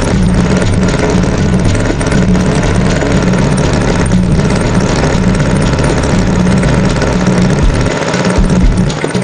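Cartoon tractor engine sound effect, running steadily with a low rumble.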